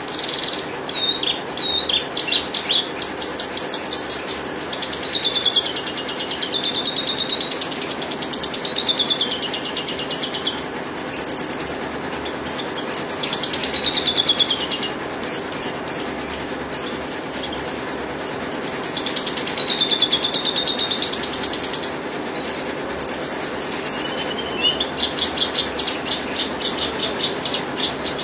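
Javan bush lark singing a continuous, fast song: rapid trills mixed with long swooping phrases that rise and fall in pitch.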